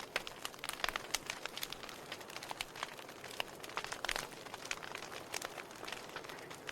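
Wood fire in a fireplace crackling: many irregular sharp pops and snaps of burning logs over a soft hiss of flame.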